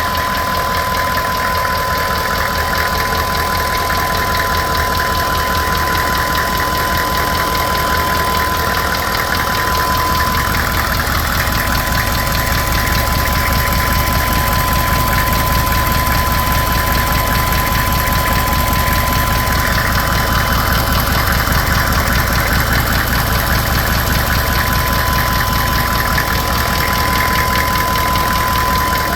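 Engine running steadily with a fast, even knocking throughout, a knock the owner is recording as an unwanted noise. A steady high tone runs alongside.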